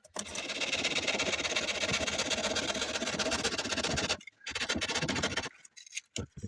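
A small power saw cutting through a piece of treated bark along a marked line. It runs steadily for about four seconds, stops briefly, then makes a second, shorter cut of about a second.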